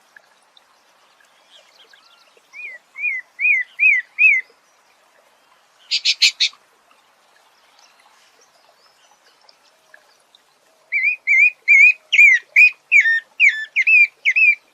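A songbird singing: a short phrase of about five quick rising-and-falling notes, then a brief dry rattle. Near the end comes a longer run of about ten such notes.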